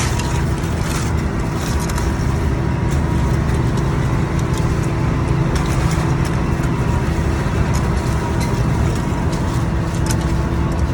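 A boat's engine running steadily, a low even hum with a constant drone and scattered light clicks over it.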